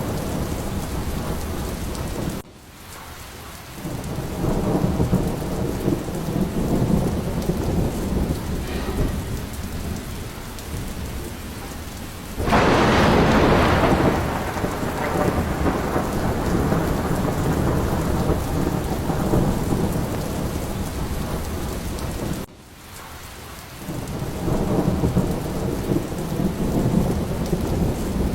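Steady heavy rain with thunder: low rolling rumbles swell up twice, and a louder, sharper thunderclap comes about halfway through. Twice the whole sound drops away abruptly for about a second before building back up.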